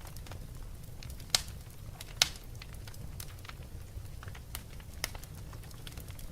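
Wood fire crackling: irregular small snaps and clicks over a low steady rumble, with two sharp louder pops between about one and a half and two and a quarter seconds in.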